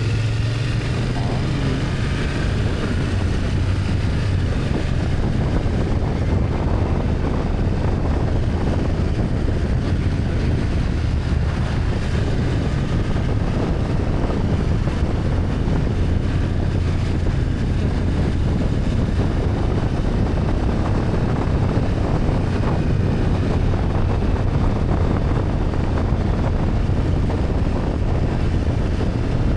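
BMW F800GS parallel-twin engine running at a fairly steady pitch while riding, with wind noise rushing over the microphone.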